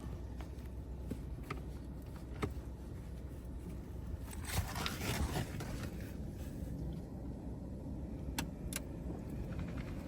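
Futura Revolution touchless car wash heard from inside the car: a steady low rumble with scattered ticks and clicks, and a burst of hissing spray on the car's body about four to five seconds in.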